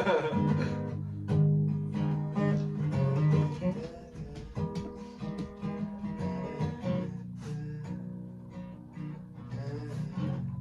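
Acoustic guitar playing, plucked and strummed, with low notes ringing under higher picked notes.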